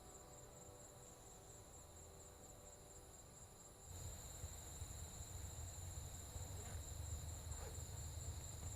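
Insects chirring steadily in high, even tones, with a low rumble of wind or handling and a few faint rustles. The chirring starts abruptly about four seconds in, after the faint tail of fading music.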